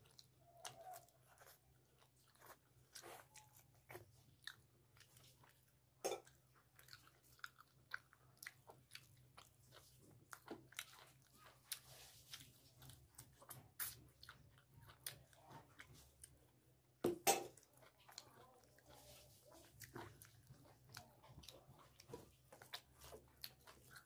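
Close, faint eating sounds: a man chewing mouthfuls of rice and chicken curry, with irregular soft clicks and crackles as his fingers mix rice on a steel plate. A sharper knock stands out about seventeen seconds in.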